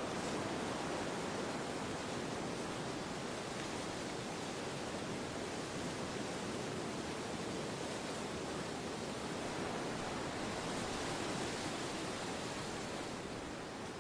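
Steady wind, an even rushing noise with no gusts or breaks.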